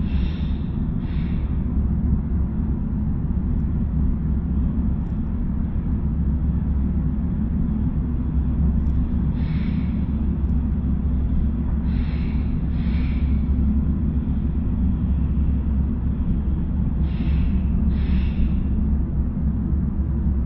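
Passenger train running at speed, heard from inside the carriage: a steady low rumble, with a few brief soft hisses now and then.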